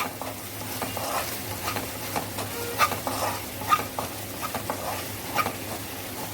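Spoon stirring and scraping in a kadhai as a fried onion-and-capsicum mixture, with gram flour just added, sizzles; a steady sizzle with irregular clicks and scrapes of the spoon against the pan.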